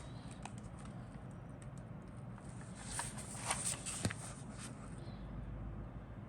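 Handling noises from a model kit's box and parts: a run of light clicks and rustles, loudest about three to four seconds in, over a steady low hum.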